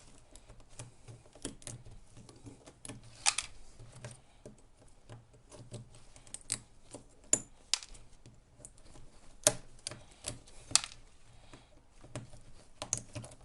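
Irregular sharp metallic clicks and snaps as nickel strip is pried and torn off the cells of an e-bike battery pack with hand tools.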